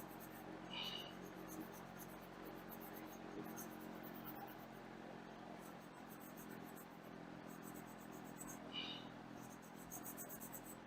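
Faint scratchy hand scrubbing on a gasket surface, in repeated spells of quick strokes, over a steady low hum.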